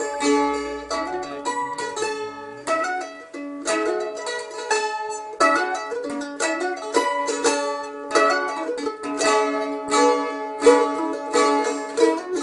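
Mandolin strummed in a steady rhythmic pattern, played slide-style, its chords stepping up and down the neck.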